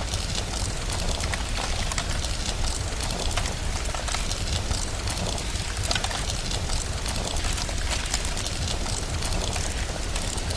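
Rain ambience mixed with a crackling fireplace: a steady hiss peppered with many small pops, over a constant low rumble.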